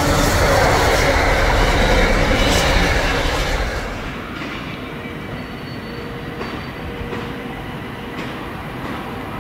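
Intermodal container wagons of a freight train rumbling and clattering past close by. About three and a half seconds in the sound drops to the quieter, more distant rumble of a Class 66 diesel-hauled container train approaching.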